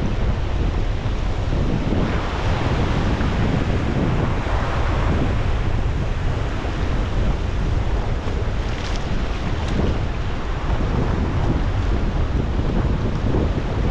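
Wind buffeting the microphone in a steady low rumble, over the rush of water from a kayak moving down the river.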